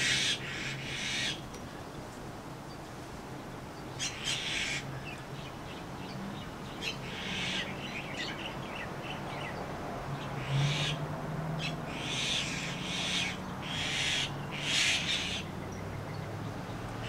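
Birds calling in short scratchy bursts every few seconds.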